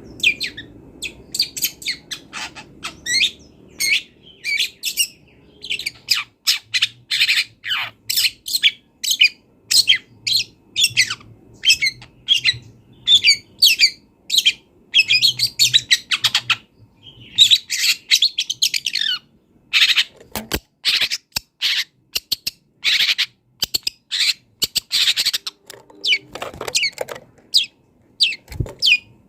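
Long-tailed shrike (cendet) singing a fast, varied song of short high chirps, harsh notes and a few downward-sliding notes, full of mimicked calls of other birds.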